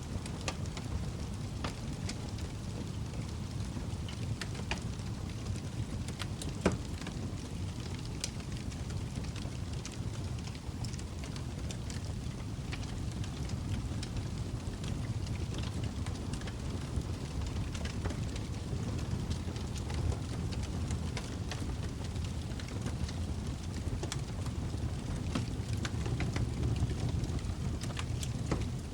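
Log fire burning in a fireplace: a steady low rumble of flames with scattered crackles and pops, one sharp pop louder than the rest about seven seconds in.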